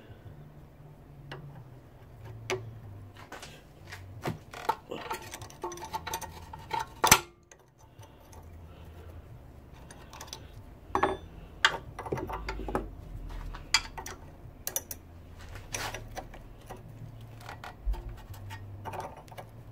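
Hand tools working on the front suspension fittings of a Ford Cortina: irregular metallic clicks, clinks and knocks of spanners and sockets on nuts and bolts. The loudest clank comes about seven seconds in.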